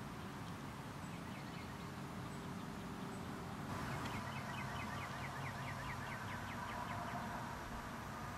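Outdoor ambience: a bird calling a fast run of short, high, repeated notes, about four a second, faintly at first and clearer from about four seconds in, over a low steady hum.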